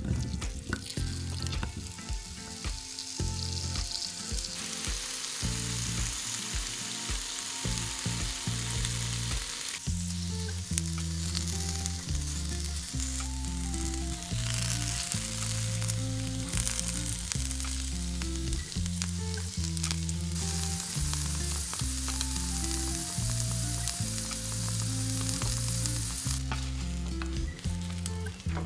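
Potato wedges sizzling in hot oil in a non-stick grill pan, with sharp knocks and clicks of the wedges and utensils in the pan during the first several seconds. From about a third of the way in, background music with a steady bass line plays under the sizzle.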